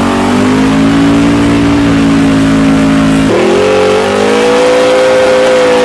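Nelson 632 cubic-inch 'Pump Gas Warrior' big-block V8 running loud at high revs and holding a steady pitch. About three seconds in, the note jumps abruptly higher, climbs briefly, then holds again.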